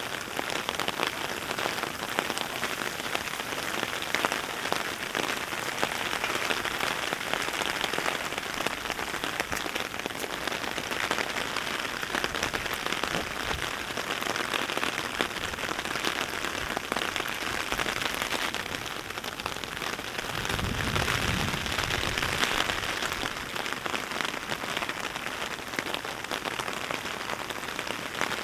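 Heavy rain falling steadily, a dense patter of drops. A low rumble joins in for a couple of seconds about two-thirds of the way through.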